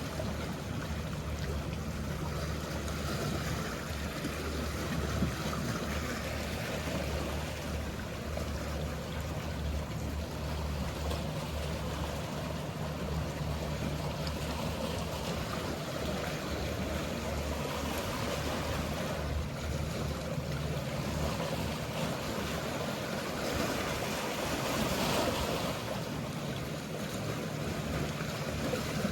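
Sea waves washing steadily, with the low steady hum of a boat engine underneath that fades somewhat halfway through; the wash swells briefly near the end.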